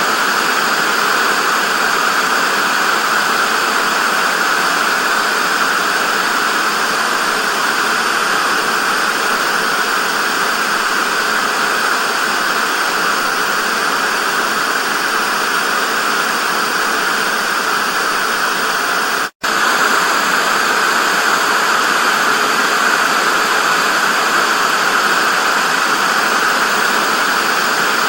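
TV static: a steady, even hiss that drops out for a split second about two-thirds of the way through.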